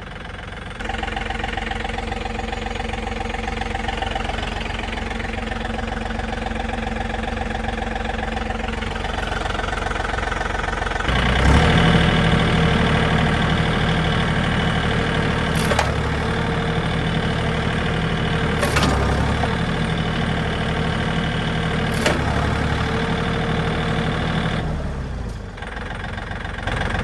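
Tractor engine starting to run just under a second in, revving up hard about eleven seconds in and held at higher revs under load for some fifteen seconds while it pulls on a car chassis through strops to straighten it. It drops back down near the end. Three sharp knocks come during the pull.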